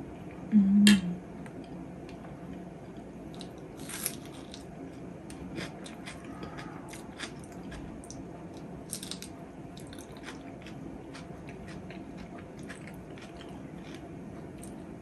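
Close-miked eating: a mouthful of chicken biryani being chewed, with many small wet clicks and smacks of the mouth. A short, loud low hum comes under a second in.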